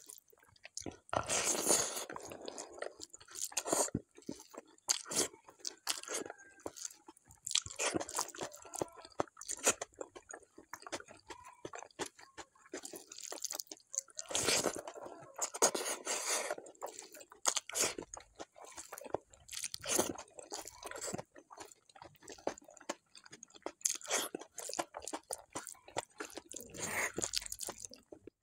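Close-miked chewing of mouthfuls of rice and bharta eaten by hand, with the squishing of fingers mixing rice on a plate between bites, in irregular bursts of clicks.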